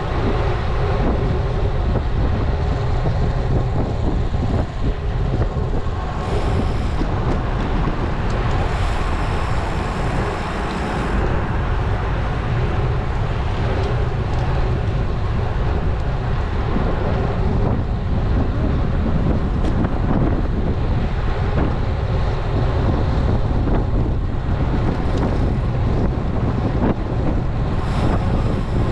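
Steady wind buffeting an action camera's microphone as a road bike is ridden, mixed with rolling road noise.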